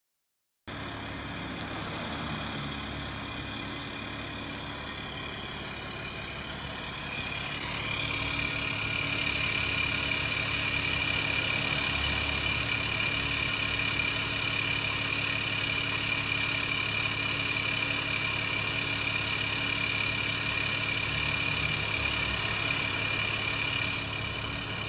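BMW 530d E60's three-litre straight-six turbodiesel idling steadily through an exhaust with the diesel particulate filter removed. A high whine climbs in pitch about five to eight seconds in and then holds steady while the engine gets a little louder.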